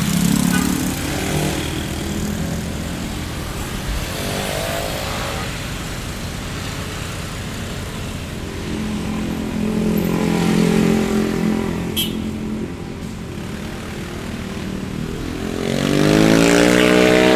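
Street traffic ambience: vehicles passing one after another, their engines swelling and fading. Near the end an engine pulls away, rising in pitch, and there is a sharp click about twelve seconds in.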